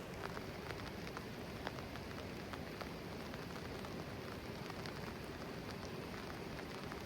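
Steady rain falling, with many scattered drops ticking sharply on nearby surfaces.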